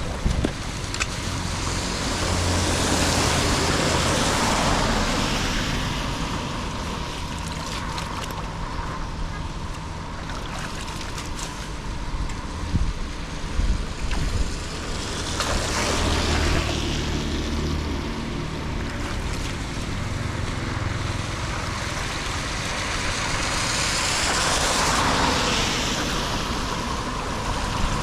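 Floodwater rushing and splashing, with wind on the microphone, swelling louder three times. A few sharp knocks come about halfway through.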